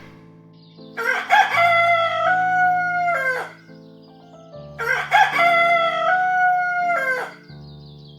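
A rooster crowing twice, each crow a long held note that falls away at the end, over soft background music.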